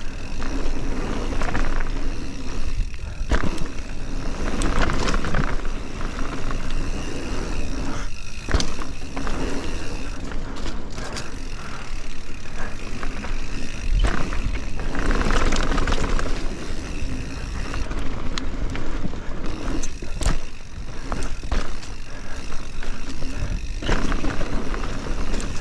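A mountain bike descending a dirt trail: tyres on loose dirt and heavy wind buffeting the microphone, with the bike rattling and knocking over bumps.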